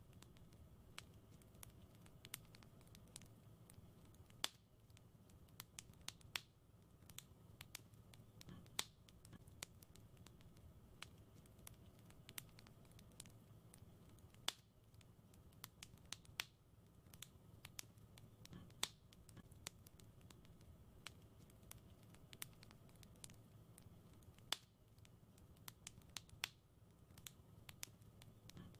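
Wood fire crackling softly: irregular sharp pops and snaps, several a second, over a faint low rumble of the burning fire.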